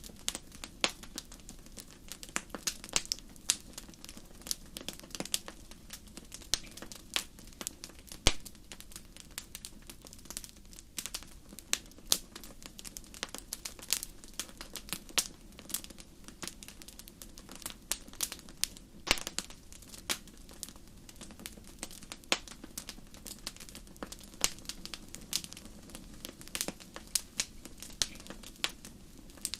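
Wood fire crackling in a fireplace: frequent, irregular sharp pops and snaps over a low, steady rumble of the flames.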